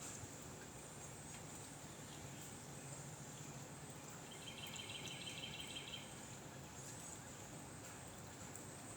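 Faint outdoor ambience: a steady high-pitched insect drone under a low hiss. A rapid trill calls from about four and a half to six seconds in.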